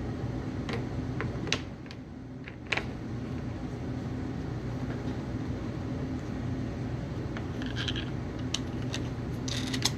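Scattered clicks and light knocks of a spare tire being fitted onto a 5th-scale RC truck's spare wheel holder, over a steady low hum.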